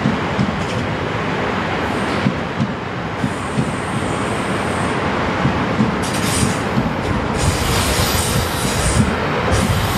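South Western Railway electric multiple unit running past on a curve, its wheels rumbling and knocking rhythmically over the rail joints. A thin, high wheel squeal sounds from about three seconds in for a couple of seconds, and more high, hissing squeal comes in patches in the second half.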